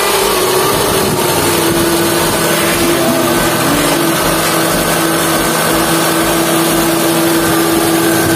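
Car engine idling steadily with a constant whine over it, as the freshly overhauled power steering pump runs while its reservoir is being filled with fluid.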